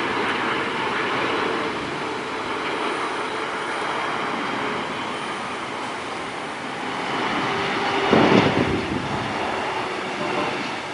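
Boeing 747-400 jet engines: a steady loud rushing roar with a faint tone, swelling briefly into a heavier rumble about eight seconds in.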